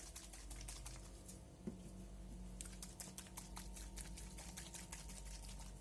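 Small bottles of alcohol ink being shaken by hand, giving quick, light clicking and rattling, fastest and densest in the middle.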